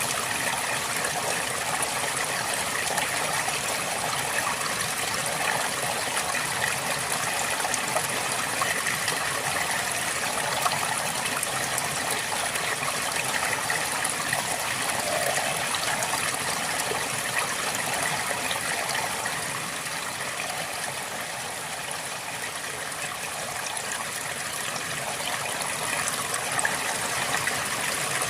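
River water flowing steadily over stones, a continuous babbling rush.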